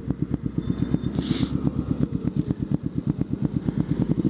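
Motorcycle engine running at low speed, a steady rapid putter of even pulses, with a short hiss about a second and a half in.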